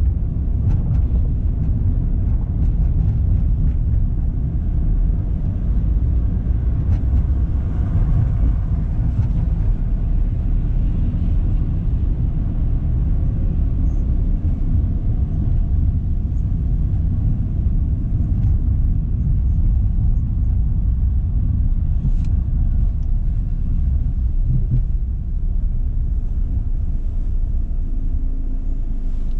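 Car driving on city roads: steady low rumble of engine and tyre noise, unbroken throughout.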